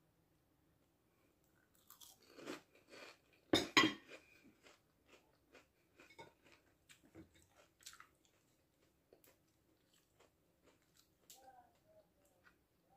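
Crunching bites and chewing of crisp batter-fried elderflower, the loudest crunches about two to four seconds in, then softer chewing with scattered small clicks.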